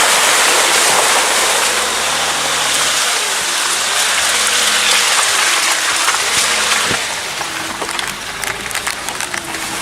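Car driving along a wet, muddy track, heard from inside: a steady hiss of water and mud thrown up by the tyres, with the engine note rising and falling. About seven seconds in it gets quieter and a patter of small clicks follows.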